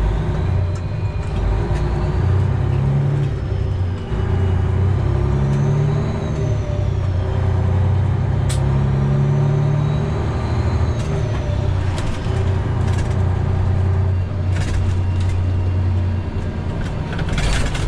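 Freightliner Classic XL semi-truck's diesel engine pulling away and accelerating, heard from inside the cab. The engine note rises and drops back several times as the driver shifts up through the gears.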